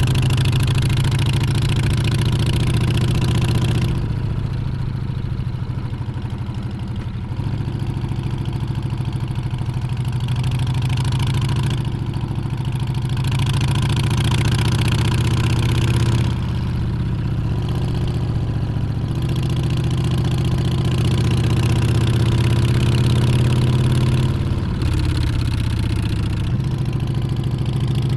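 Harley-Davidson Street Bob's Milwaukee-Eight 114 V-twin running under way, a steady low exhaust note with wind rush over it. The wind and engine ease off twice, about four seconds in and again past the middle, then pick up again.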